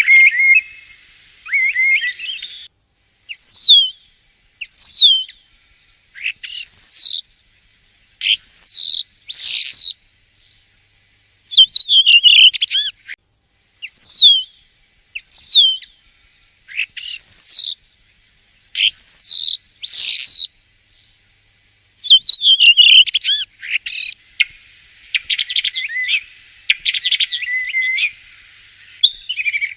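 Common starling singing: a series of high whistles sliding steeply downward, given one at a time with short pauses between them, mixed with denser chattering, rattling phrases near the start and again near the end.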